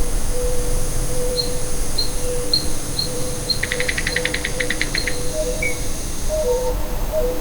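Rainforest ambience: a steady high insect drone under short high calls repeated about twice a second. A rapid trill of about fifteen pulses comes in the middle, and low hooting calls sound through it.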